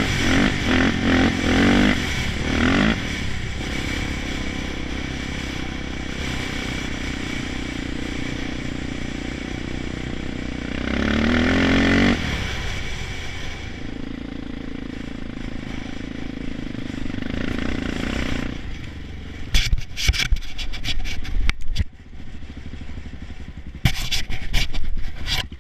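Honda TRX400EX quad's single-cylinder four-stroke engine held at high revs, stuttering rapidly against the rev limiter at the start and again about eleven seconds in, with steadier running between. Over the last six seconds the engine drops back and irregular scraping and clattering noises take over.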